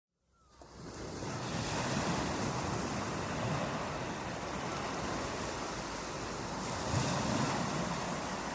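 Steady rushing water, fading in from silence over about the first second, with slight swells now and then.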